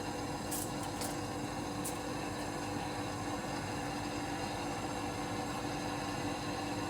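A machine running with a steady hum and a few faint ticks in the first two seconds.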